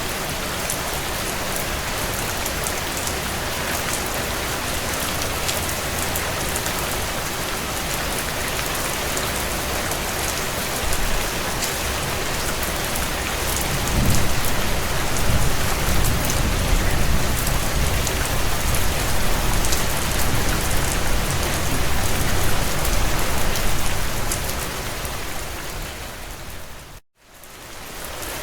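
Steady heavy rain on a window, with fine scattered pattering. A low rumble swells in about halfway through and lasts around ten seconds, and the sound cuts out for a moment near the end before the rain resumes.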